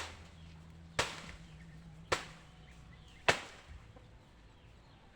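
Four sharp blows of a hand tool striking the old chicken coop's structure as it is being knocked down, about one a second.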